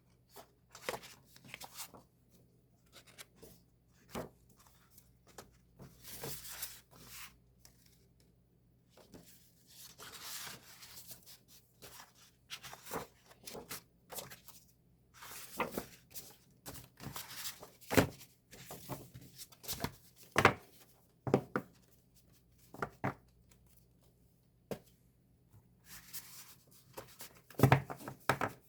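Paper and plastic packaging of a K-pop album being handled: irregular rustling and tearing, with scattered sharp taps and clicks as items are picked up and set down.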